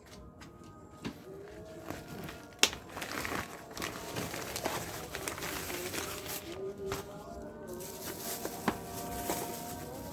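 Plastic instant-noodle packaging crinkling and tearing as it is handled and opened, with scattered light clicks and one sharp knock about two and a half seconds in.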